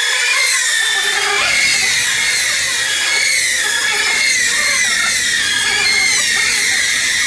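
Several racing motorcycle engines at very high revs, making a loud, high-pitched whine whose pitch wavers up and down as the bikes rev and change gear. The sound cuts off abruptly at the end.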